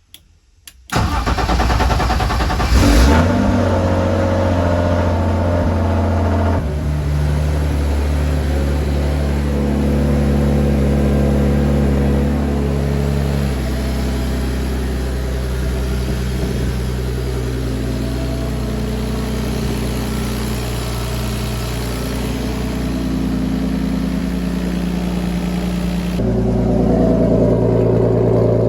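Turbocharged BMW M50 inline-six cranked over about a second in, catching with a quick rev about three seconds in, then idling on a cold start ahead of warm-up. The idle speed steps down twice and rises again near the end.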